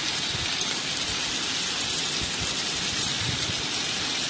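Vegetables sizzling steadily in hot oil in a frying pan as they are stir-fried.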